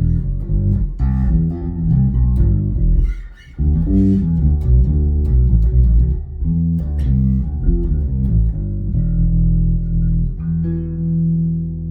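Custom Fender American Deluxe Precision Bass with new Elixir strings, played on its neck pickup with flat EQ and a little bass boost through a tube bass amp. A run of plucked notes stops briefly about three seconds in, then resumes, and near the end long notes are left ringing out.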